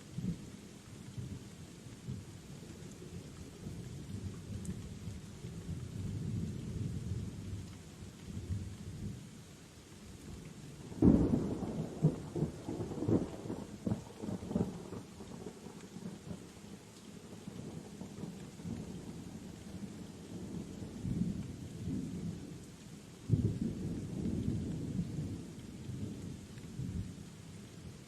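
Rain falling with thunder rumbling low throughout. A loud, sudden clap of thunder breaks a little over a third of the way in and rolls on crackling for a few seconds, and another sharper roll of thunder comes near the end.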